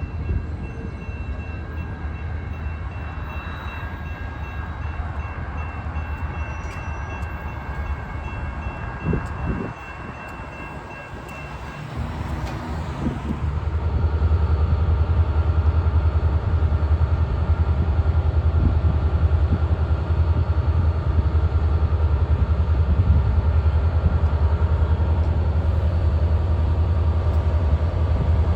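Train passing on the tracks. A moderate rumble with faint steady high tones gives way, about 13 seconds in, to a much louder, steady low rumble that holds to the end.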